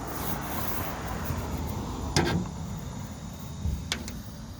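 Primer being rubbed onto an aluminum boat hull by hand, a scratchy brushing sound for the first couple of seconds, with a sharp knock just after two seconds in and a lighter one near the end.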